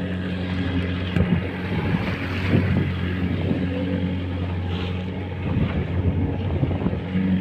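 Small fishing boat's motor running steadily while underway, with wind buffeting the microphone in uneven gusts.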